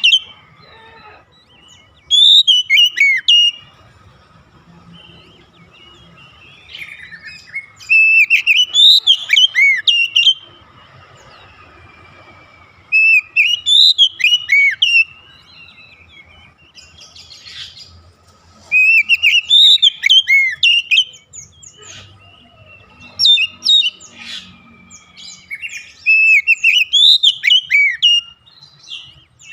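Oriental magpie-robin (kacer) singing: five loud phrases of fast, whistled notes that sweep up and down, each a few seconds long, with short pauses between them.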